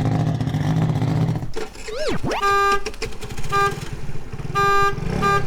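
A car engine running steadily, then a sound sweeping down and back up in pitch, followed by four short horn honks.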